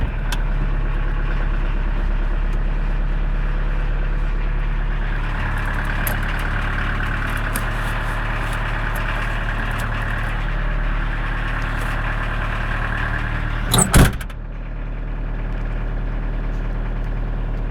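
Volkswagen Golf Mk1 engine idling steadily just after a cold start, with a sharp double thump about three-quarters of the way through.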